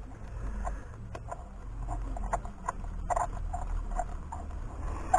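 Light metallic tool clicks under the hood, typical of a hand ratchet working a spark plug on a 2013 Ford Escape's 2.0-litre engine. The clicks come irregularly at first, then about three a second in the second half, over a steady low hum.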